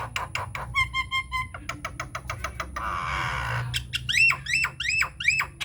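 Nias hill myna calling in a varied series: a fast run of clicking notes, then a short pitched call repeated a few times, a harsh rasp, and four loud whistled notes that swoop up and back down.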